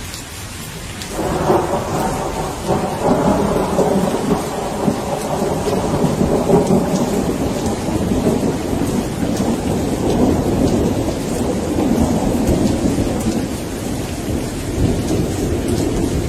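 Steady rain falling, with small drop ticks throughout. About a second in a long rolling thunder rumble starts and carries on through the rest of the stretch.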